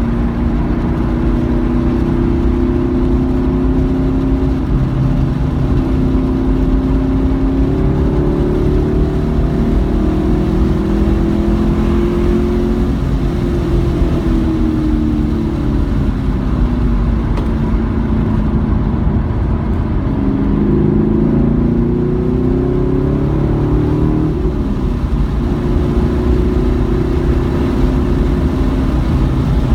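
Car engine on a track lap, heard from on board, its pitch falling as the car slows and rising again under acceleration, over a steady low road rumble.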